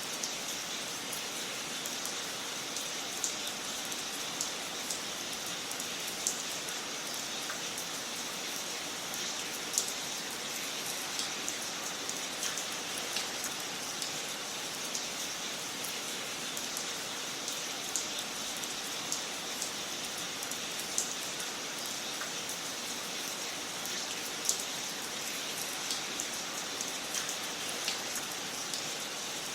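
Wood fire crackling in a fireplace: a steady hiss with irregular sharp snaps and pops, a few of them louder.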